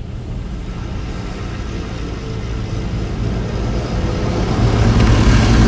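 Automatic car wash running around the car, heard from inside the cabin: a low rumble with a rushing hiss that grows steadily louder.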